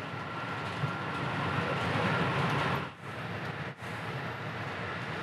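Electric Special Rapid Service commuter train running, heard from inside the front car just behind the driver's cab: a steady rumble and hiss that swells over the first three seconds, then drops away abruptly and carries on at a lower level.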